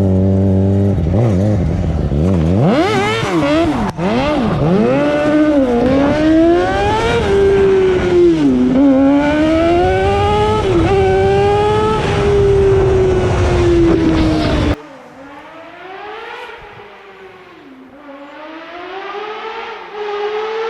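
Crosskart's 100 hp sportbike engine revving hard, its pitch climbing and dropping again and again as it runs through the gears. About fifteen seconds in the sound drops abruptly and the engine is heard quieter, still revving up and down.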